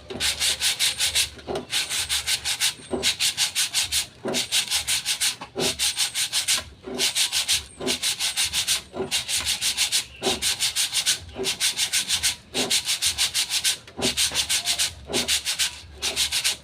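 Sandpaper rubbed by hand against a brake drum in quick back-and-forth strokes, about five a second, in runs of about a second broken by short pauses.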